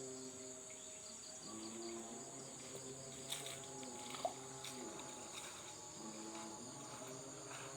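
Steady high-pitched chirring of an insect chorus, crickets at dusk, with faint distant tones drifting in low underneath and a couple of small ticks.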